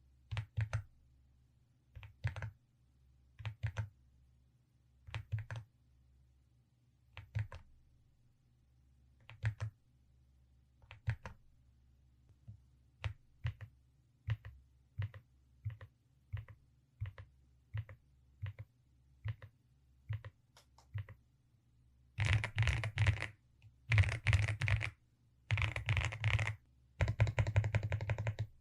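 Keys on a Velocifire RX870 mechanical keyboard with DSA keycaps being pressed one at a time, each press and release giving a pair of clacks every second or two. About 22 seconds in this changes to fast typing in dense bursts.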